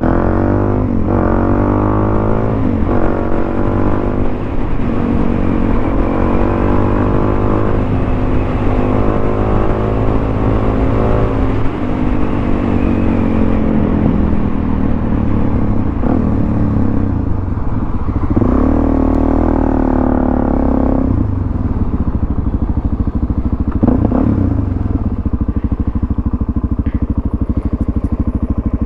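Suzuki DRZ400 supermoto's single-cylinder four-stroke engine running under way, through a Yoshimura exhaust with the baffle fitted. The engine note rises and falls with the throttle, with a strong rise around two-thirds of the way through, then settles lower toward the end.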